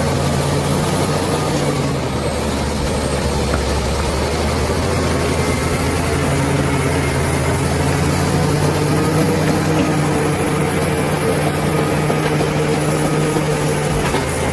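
Bulldozer's diesel engine running steadily with a low, even engine note.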